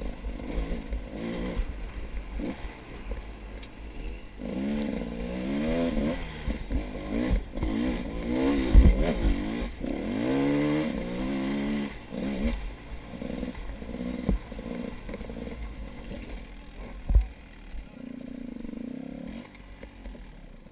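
A motor vehicle engine revving up and down over and over, loudest in the middle stretch and easing off near the end, over a steady low rumble.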